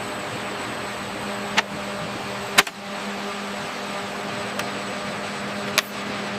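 A steady mechanical hum and whir, like a fan or machinery running. Four sharp clicks or knocks break through it, the loudest about two and a half seconds in.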